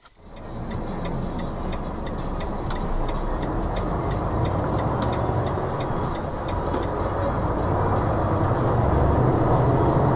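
Steady road and engine noise of a moving vehicle picked up by a dash cam, with a faint regular ticking; the low rumble grows somewhat louder toward the end.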